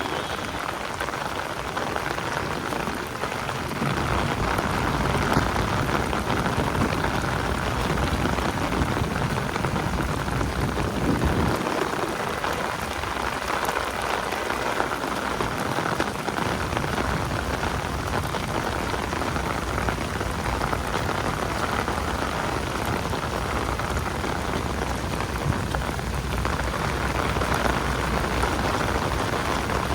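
Steady rain falling on city pavement, a constant hiss of drops. A low rumble comes and goes beneath it.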